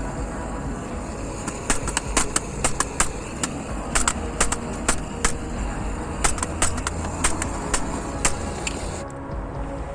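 Hammer blows on the warped metal grate of a fire pit, striking it straight: sharp, irregular knocks, about two or three a second, starting a couple of seconds in over a steady low rumble.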